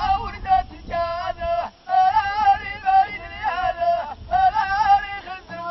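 Ahidous troupe singing: voices chant a high, wavering melody in short phrases, each held for about half a second with brief breaks between.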